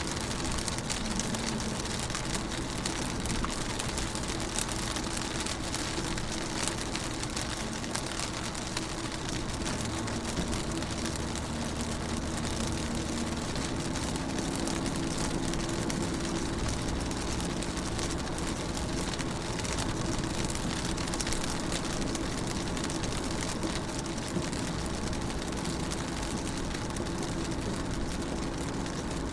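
Rain pattering on a car's windows and roof, heard from inside the car, many small drop ticks over a steady hiss. A low steady hum runs underneath.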